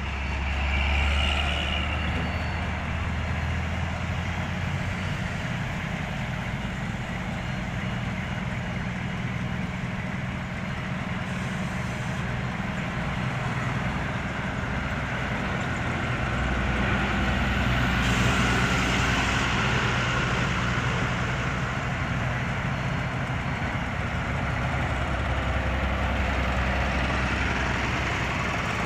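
Diesel engines of heavy road-construction machinery running steadily with a deep hum, growing somewhat louder about two-thirds of the way through.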